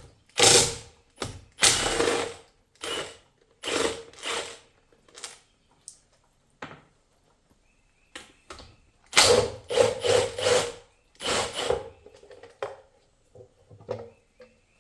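Cordless power tool spinning bolts out of an automatic transmission's valve body in about a dozen short bursts, with a quick run of several close together around two-thirds of the way through.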